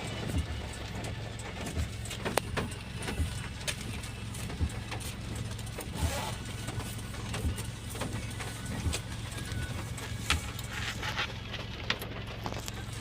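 Steady low engine drone of a moving vehicle heard from inside, with scattered small knocks and rattles.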